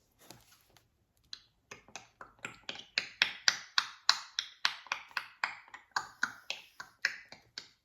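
African grey parrot making a rapid run of sharp clicks, about four a second, starting about a second in and going on steadily to near the end.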